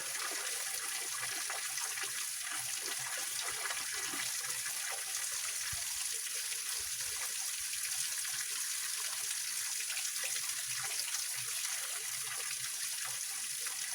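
Small waterfall on a rocky mountain stream: water splashing and trickling over rocks in a steady, mostly high-pitched rush.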